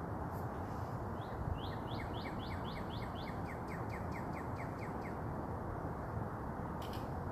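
A bird singing a fast run of short rising chirps, about four a second, for some four seconds, over a steady low background noise.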